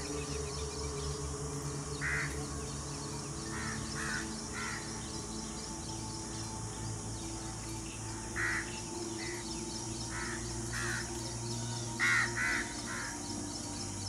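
A bird calling in short calls, about a dozen scattered through, the loudest a quick run of three near the end, over a steady low hum.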